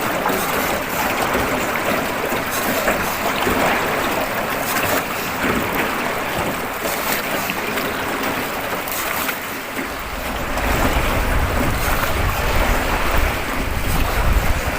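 Water and wind noise from a small boat moving along a river, an even rushing hiss with no engine heard. About ten seconds in, wind starts buffeting the microphone with a low rumble.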